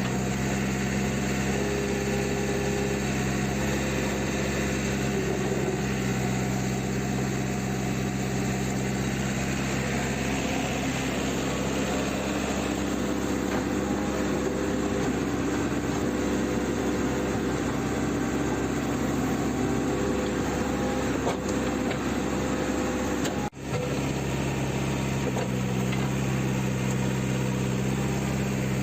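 JCB 3CX backhoe loader's diesel engine running. The hum is steady at first, wavers and blurs through the middle, then settles back to a steady note after a brief dropout about 23 seconds in.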